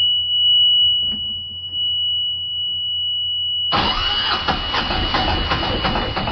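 A warning buzzer on the engine panel sounds a steady high tone, then about three and a half seconds in the Yanmar 3QM30H marine diesel cranks over on its newly fitted starter motor and runs, loud and uneven, with the buzzer still sounding.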